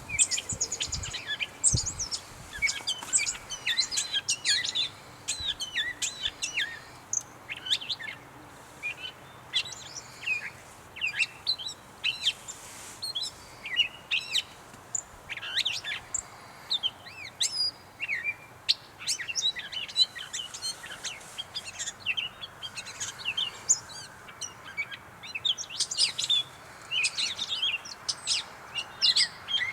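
Gray catbird singing: a long, rambling run of short, varied squeaky and whistled phrases in quick succession with brief gaps.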